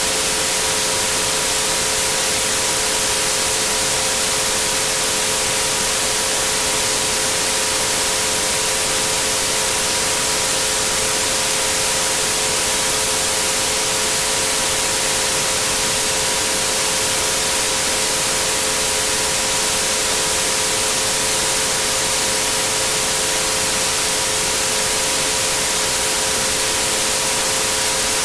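Steady synthesized white noise with three pure tones held under it at 432, 528 and 963 Hz, unchanging throughout.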